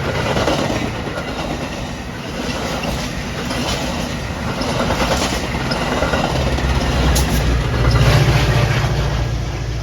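A train passing, its wheels clicking over the rail joints amid steady rolling noise, with a low rumble that swells about two-thirds of the way in.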